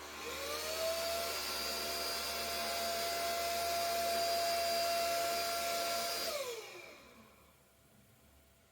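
SMDEE D2 bedding vacuum cleaner switched on: its motor spins up with a rising whine, runs steadily with a loud rush of air for about six seconds, then is switched off and winds down to a stop.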